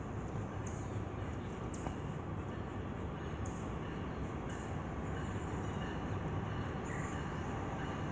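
Distant CN diesel freight train approaching: a steady low rumble that builds slightly toward the end, with a few short, high chirps over it.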